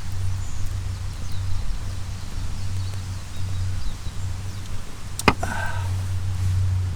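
Outdoor woodland ambience: a steady low rumble with faint high bird calls, and one sharp click about five seconds in, followed by a brief pitched squeak.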